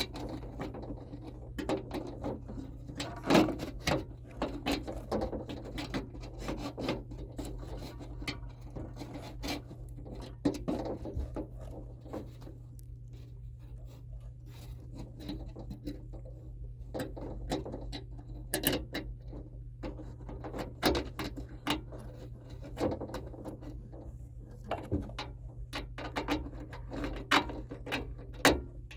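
Irregular clicks, knocks and rattles of hand work on metal parts, over a steady low hum.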